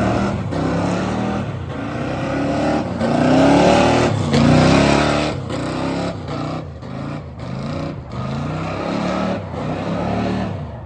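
Ford F100's 460 big-block V8 revving hard again and again, its pitch climbing and falling, over a dense rushing noise, with several brief dips. It stops abruptly at the end.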